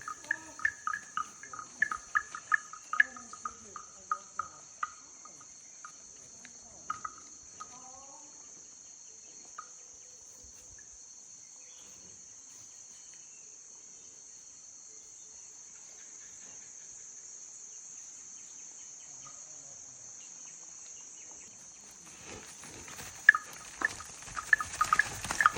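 Steady high-pitched drone of insects, crickets or cicadas, with a run of rapid sharp chirping clicks in the first few seconds and again near the end.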